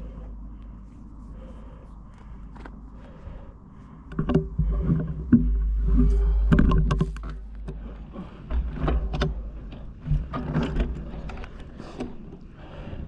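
Mountain bike rolling over rough, rocky trail: wind rumbling on the microphone, with scattered knocks and rattles that grow louder about four seconds in.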